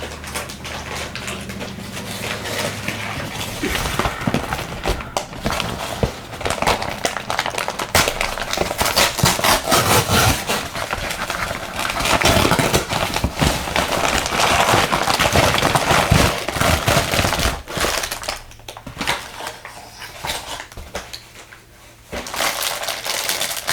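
Package being opened by hand: irregular rustling and crinkling of packaging, busiest through most of the stretch and quieter near the end.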